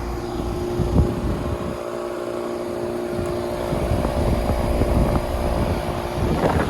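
2002 York Olympian 2-ton air conditioner condensing unit running, its Bristol reciprocating compressor and condenser fan giving a steady hum, with irregular gusts of air buffeting the microphone.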